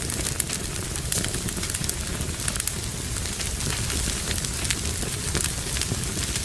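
Wood fire burning in a fireplace: a steady low rumble of flames with frequent, irregular crackles and pops of burning logs.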